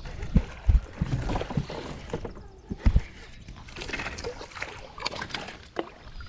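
Thumps and knocks against the hull of a sit-on-top fishing kayak, with water splashing and sloshing around it. Four heavy thumps come in the first three seconds, then lighter clattering.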